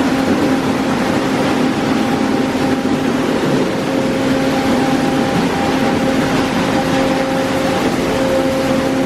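D&S Odyssey automatic car wash running: a steady rush of spraying water over a constant motor hum.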